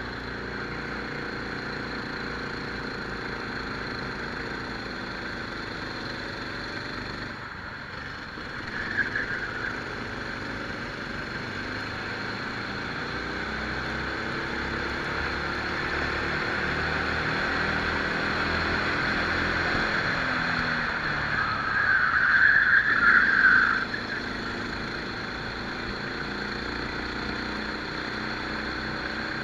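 Rental kart engine heard onboard, its pitch rising and falling as the kart speeds up and slows through the corners. Two short louder, hissy spells break in, a brief one about nine seconds in and a longer one about two-thirds of the way through.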